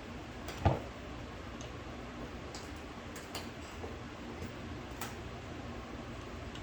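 Light metallic clicks and taps from small carburetor parts and tools being handled on a workbench, with one sharper knock just under a second in, over a steady background hum.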